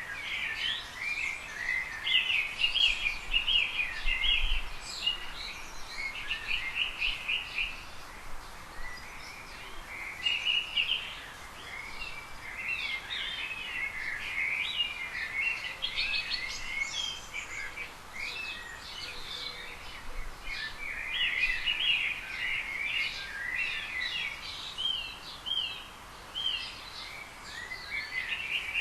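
Small birds chirping and twittering in a steady, overlapping chatter of short high calls.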